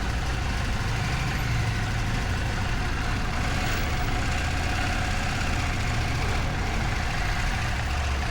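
Steady low drone of a ferry's engines, with a faint constant hum above the rumble.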